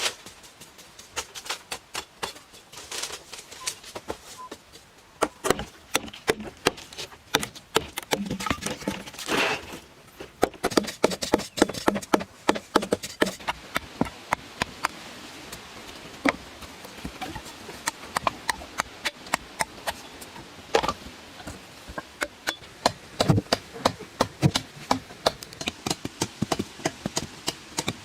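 Irregular knocks and taps of work at close range, sparse for the first few seconds, then coming in quick runs.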